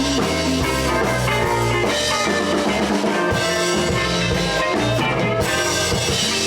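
Live blues band playing an instrumental passage: drum kit, guitars and bass, with no singing.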